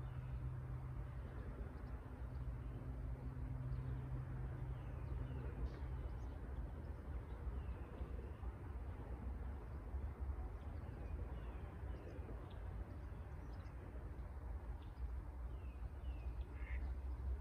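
Wild birds chirping and calling in short, high, downward-gliding notes scattered throughout, over a steady low rumble. A low steady hum stops about six seconds in.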